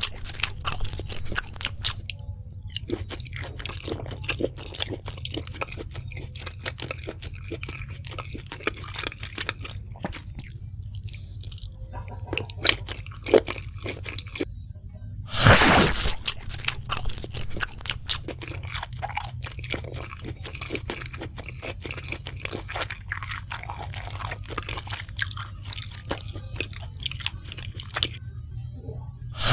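Close-miked chewing of crispy fried food, with many small crunches, and one loud crunching bite about halfway through. A steady low hum sits underneath.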